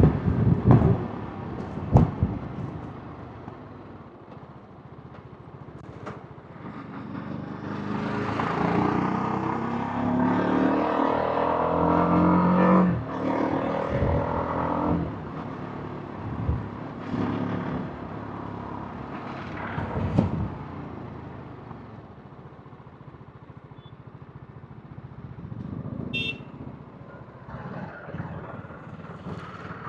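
TVS Apache RR310's single-cylinder engine and exhaust on the move: the revs climb with a rising pitch for about five seconds, then drop off into quieter cruising and coasting. A few sharp knocks are scattered through.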